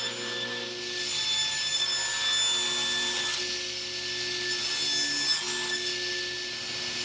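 Electric power saw running and cutting wooden parts: a steady motor whine under the noisy rasp of the blade in the wood, swelling and easing as the stock is fed through.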